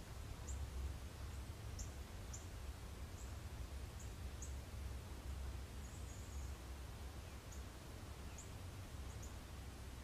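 Faint outdoor garden ambience: about a dozen short, high-pitched chips from small birds, scattered irregularly, over a low steady rumble.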